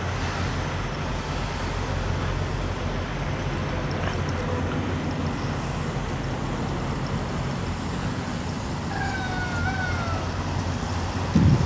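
Semi truck's diesel engine idling, a steady low hum. Faint high gliding tones come in about nine seconds in.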